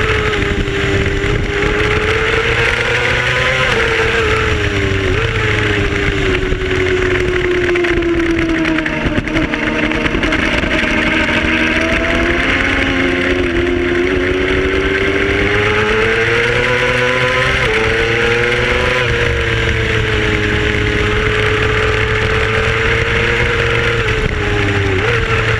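Racing motorcycle engine running hard, its pitch climbing and falling with each change of speed and dropping suddenly at each upshift, several times, over a steady rush of wind noise.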